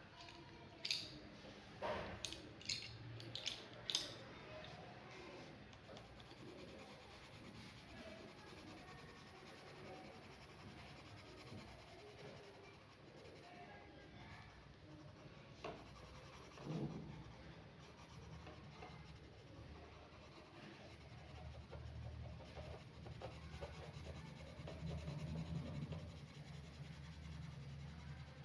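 Pen drawing on paper: faint scratching and rubbing strokes, with a few sharp clicks in the first few seconds. A low hum comes in past the middle.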